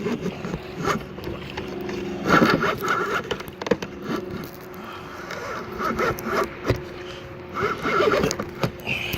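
Bursts of scraping and rustling as a hooked redfish is pulled out of marsh grass, over a steady low hum.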